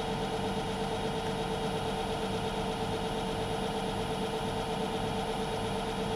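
Myford metalworking lathe running steadily, a constant machine hum with a strong steady tone.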